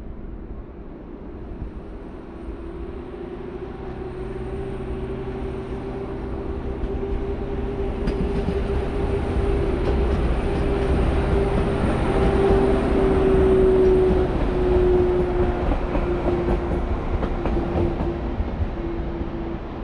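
SŽ Class 610 Stadler FLIRT diesel multiple unit passing close by on the track beside the platform. The running noise builds to a peak about two-thirds of the way through, then fades, and a steady hum drops in pitch as the train goes by.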